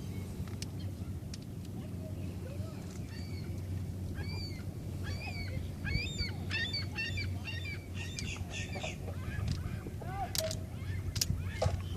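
A flock of water birds calling, many short calls overlapping, thickest in the middle and thinning toward the end, over a steady low hum.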